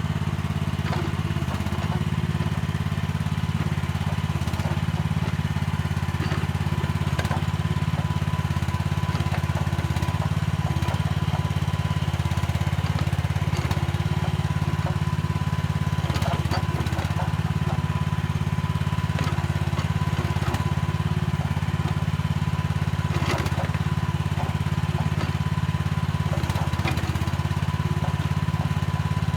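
Mini excavator's diesel engine running steadily, with scattered short knocks and scrapes of the bucket working soil.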